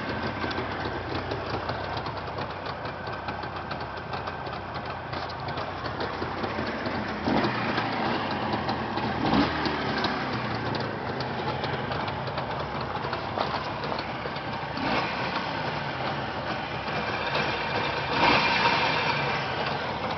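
Jawa two-stroke motorcycle engine running steadily, getting a little louder for a moment near the end.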